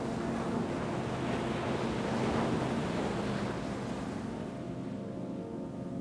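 Ocean wave surging in and washing back out, swelling about two seconds in and easing off by about four seconds, over a steady low drone of held tones.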